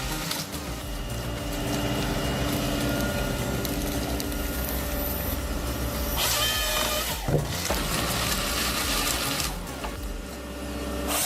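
Forestry harvester (a Nisula 555C harvester head on a Volvo carrier) working logs, its engine and hydraulics running steadily. About six seconds in there is a brief louder stretch with a whine that glides up and back down.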